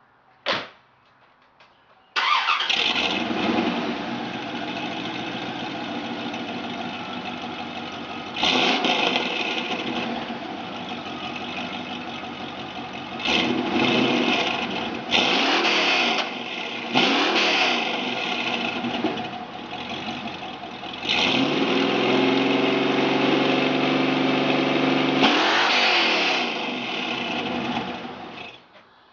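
1996 Corvette's 5.7-litre small-block V8 breathing through Stainless Works headers and a Corsa exhaust, after a short click, starts about two seconds in and settles to an idle. It is then blipped several times, held at higher revs for a few seconds, blipped once more and shut off near the end.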